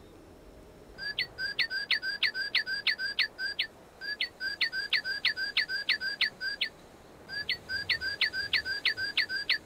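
A songbird singing three phrases of clear whistled notes. Each note slurs quickly downward, and each phrase is about ten notes at roughly four a second, with short pauses between phrases.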